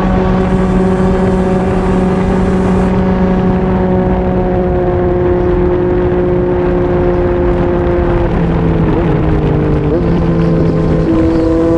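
Yamaha MT-09's three-cylinder engine through a Yoshimura R55 slip-on exhaust, running at steady cruising revs with wind rushing past. About eight seconds in the revs dip and waver for a couple of seconds, then settle steady again.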